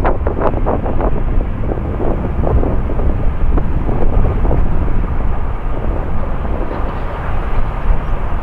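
Jet airliner engines roaring on the runway, a steady dense rumble, with heavy wind buffeting the microphone.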